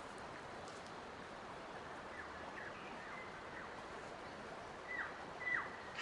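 A bird calling with short whistled notes that each slide quickly downward, several in a row starting about two seconds in, the last two louder, over a steady soft hiss.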